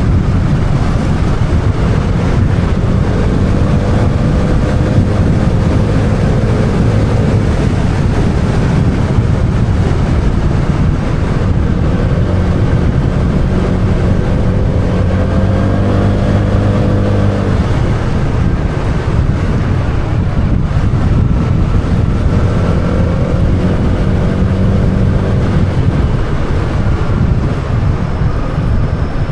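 Motorbike engine running on the move, its pitch rising and falling several times with the throttle, under heavy wind noise on the microphone.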